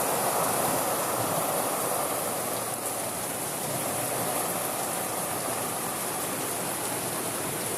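Heavy thunderstorm rain pouring down, a steady even hiss.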